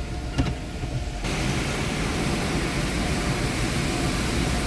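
Steady low rumble of a car idling in the queue of an automatic car wash; about a second in, a steady rushing hiss starts suddenly and keeps on.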